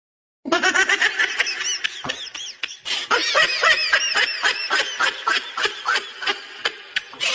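High-pitched laughter: a fast, unbroken run of short giggling bursts that starts about half a second in.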